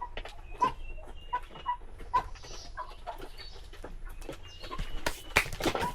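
Chickens clucking repeatedly in short calls, with a few thin chirps. A cluster of sharp clicks comes near the end.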